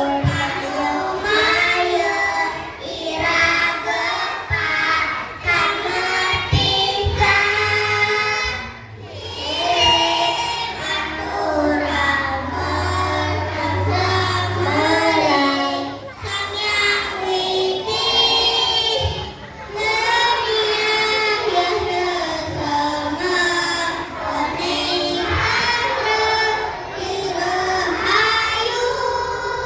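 Kindergarten children's choir singing a song together in sung phrases, with short breaths between lines.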